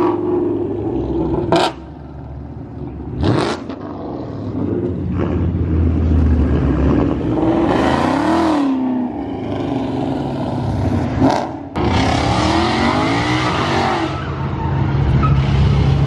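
Car engines revving up and down and accelerating as performance cars pull through past the crowd, with three sharp cracks during the revving.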